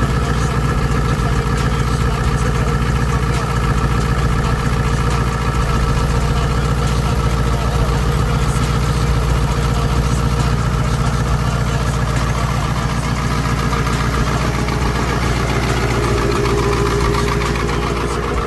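Ford 7.3 Powerstroke turbodiesel V8 idling steadily after a cold start, with a constant diesel clatter.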